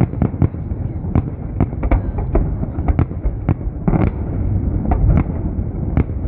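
Fireworks salute: many shell bursts in quick, irregular succession, with sharp bangs over a continuous low rumble.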